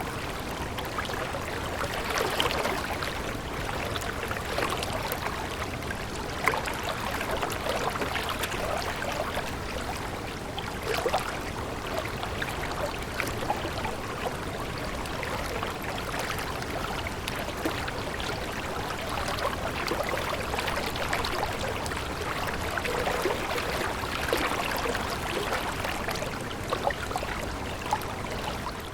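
Running water of a stream: a steady rush with constant small splashes.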